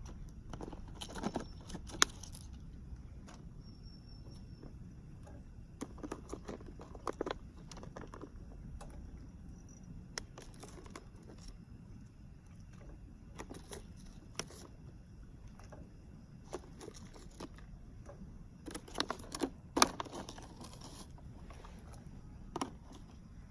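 Light clicks, knocks and rattles of small objects being handled, scattered and irregular, with a sharp clack about two seconds in and a quick cluster near the end, over a steady low rumble.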